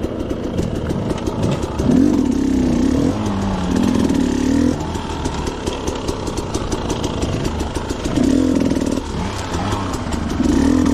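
Two-stroke dirt bike engine running, with its rapid rhythmic firing, and revved up in short bursts four times. The loudest burst is about two seconds in.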